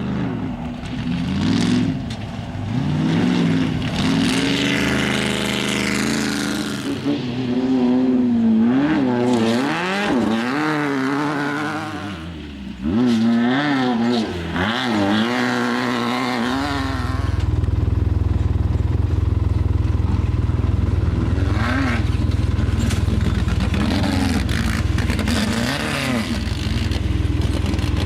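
Off-road race cars and trucks passing one after another, their engines revving up and down as they run over rough desert ground. From a little past halfway a steady low rumble takes over.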